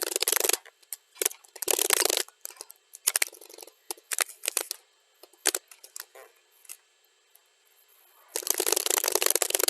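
Computer keyboard typing, played back at double speed. There are dense runs of rapid keystrokes at the start and again from about the last third on, with scattered single key clicks and a brief near-silent pause between them.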